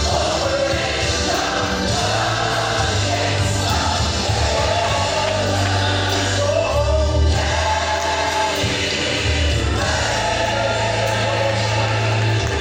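Gospel music: a choir singing over steady bass and accompaniment.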